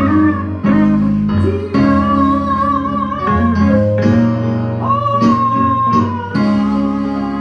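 Guitar playing a slow melody of long held notes that waver and slide between pitches, over sustained chords and bass.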